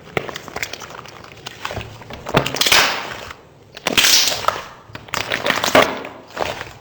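Slime being worked by hand, giving a run of crackling, popping clicks. There are three louder, squelchier bursts, at about two and a half, four and five and a half seconds in.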